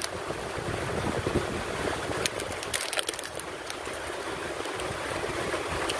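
Steady hiss of heavy rain falling. A few short crackles about halfway through come from a small paper prize slip being handled and peeled open.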